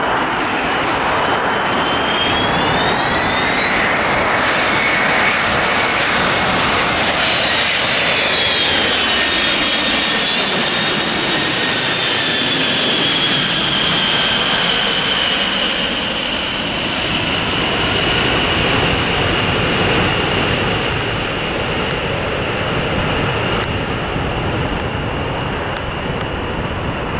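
Boeing 747SP's four Pratt & Whitney JT9D turbofans on landing approach passing close by: a loud, steady jet roar with a high whine that climbs in pitch in the first few seconds, drops as the aircraft goes past about ten seconds in, then holds steady.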